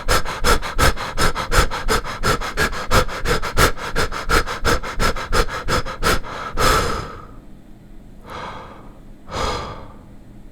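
A man breathing hard: quick, even panting at about four breaths a second, then one longer breath about six and a half seconds in. Two slower, separate breaths follow, the last near the end.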